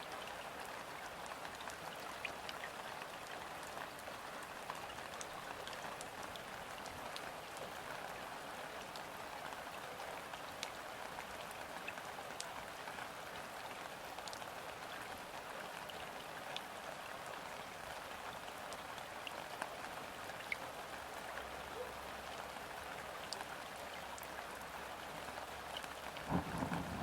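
Steady rain falling onto a river's surface: an even, dense patter with scattered sharp clicks of single drops. A low rumble swells up just before the end.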